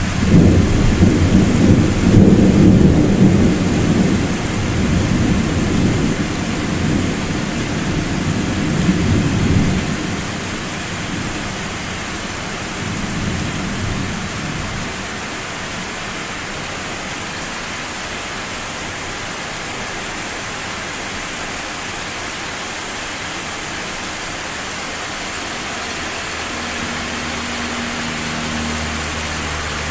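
Deep, long rumble of thunder for about the first ten seconds, fading away about ten seconds in. A steady hiss of rain continues after it.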